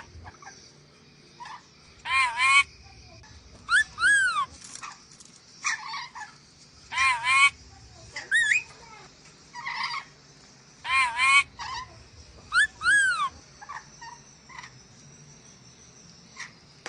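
Sulawesi nuri dora parrot calling: short, shrill squawks that rise and fall in pitch, mostly in pairs, repeated every second or two.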